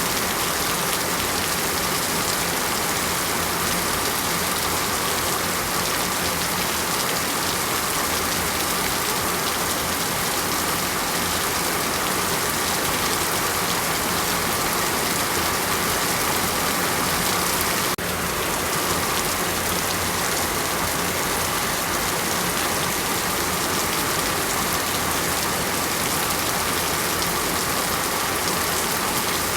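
Heavy rain falling steadily: a dense, even hiss of rain on surfaces, with a slight sudden change in level about two-thirds of the way through.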